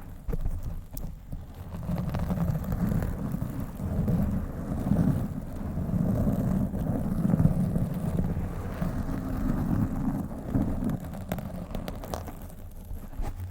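Fingers scratching and rubbing directly on a microphone, a dense rumbling scratch with a few sharp clicks.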